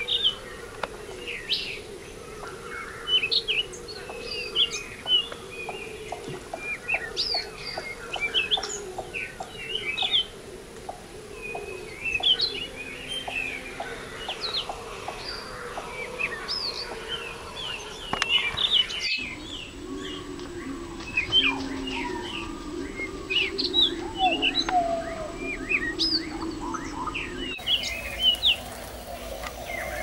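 Several wild birds chirping and calling at once, many short, quick chirps overlapping. A run of quick, evenly spaced ticks comes in the first half.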